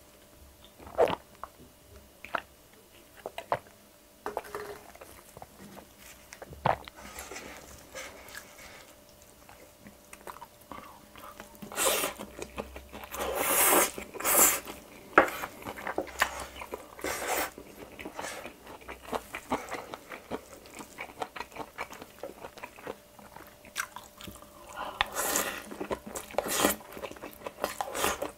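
Close-miked eating sounds. A few quiet gulps and small clicks at first, then from about twelve seconds in, dense chewing of spoonfuls of bibimbap (mixed rice) that comes in bouts.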